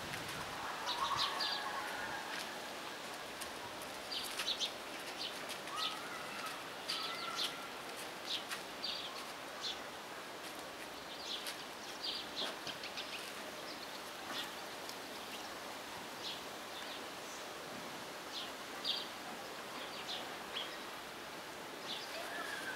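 Small birds chirping: short, high chirps every second or so, with a few lower, sliding calls, over steady outdoor background noise.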